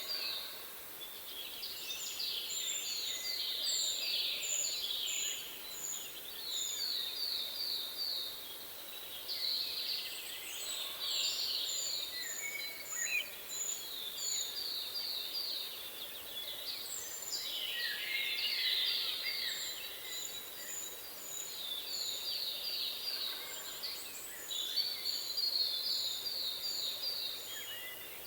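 Several songbirds singing and calling over one another: repeated quick runs of high, downward-slurred notes and strings of short, even higher chips, with brief lulls, over a steady faint hiss.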